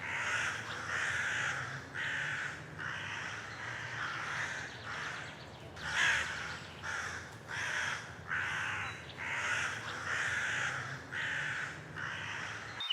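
A bird giving harsh, raspy calls over and over, about one and a half a second, in a steady run that cuts off abruptly at the very end.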